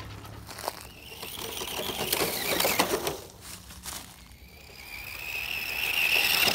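Small electric motor and gears of a radio-controlled truck whirring, with scattered clicks and a high whine that rises slightly near the end.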